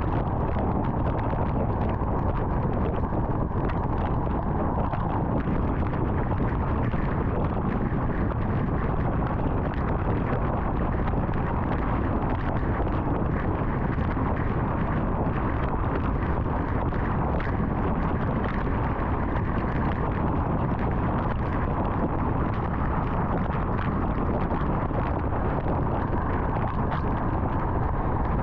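Car driving at highway speed: steady tyre and wind noise from the road.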